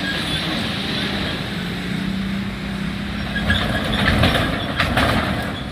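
Train passing a railway level crossing: a steady low running drone, with a few sharp clacks of wheels over the rails in the second half.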